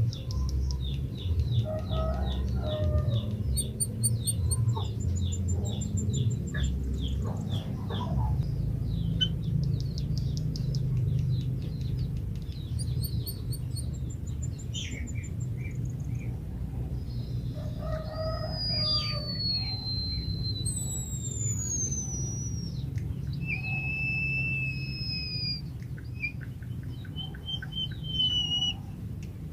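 White-headed munia (emprit kaji) singing. It starts with a run of short ticking notes, about two a second. From about two-thirds in come several long, thin whistles, some gliding down in pitch and some held level. A low steady background noise lies underneath.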